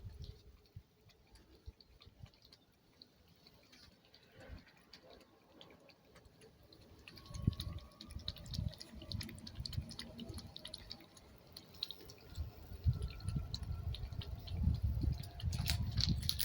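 A cat lapping water from a dish: quiet wet clicks and drips, thicker from about halfway in, mixed with repeated low bumps.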